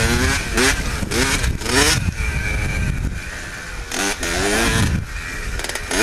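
Pit bike engine revving hard while riding, its pitch climbing and dropping again several times as the throttle is worked.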